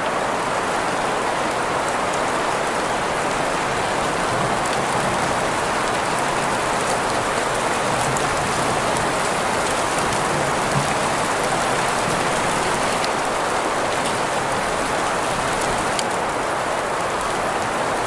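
Steady rain sound mixed with green noise, an even hiss strongest in the middle range, with scattered faint drop ticks.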